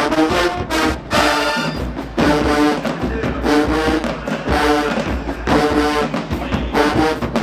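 HBCU marching band brass playing a stand tune: loud, punchy brass phrases repeated every second or so over a low bass line.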